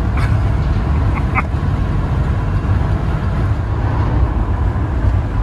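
Steady low rumble of a vehicle driving on the road: engine and road noise, with a few faint brief sounds in the first second and a half.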